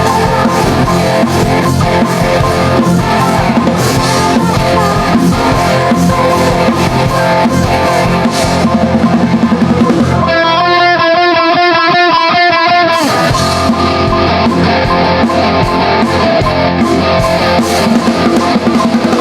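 Live rock backing music playing the instrumental ending of a song: electric guitar over a drum kit. In the middle the drums and bass drop out for about three seconds under a held, wavering note, then the full band comes back in.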